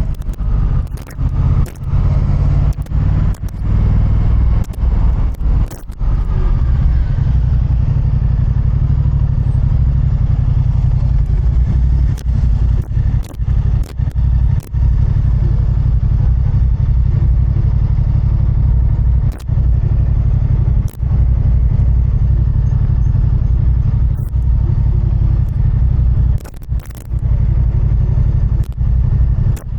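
Motorcycle running on the road, heard from the rider's point of view as a steady low rumble, with many short knocks and crackles breaking in throughout.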